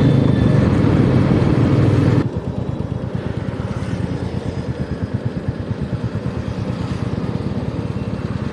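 Royal Enfield Meteor 350's single-cylinder engine running. For about two seconds it is loud and dense with road rush, then it drops suddenly to a quieter, even beat of the engine's firing pulses.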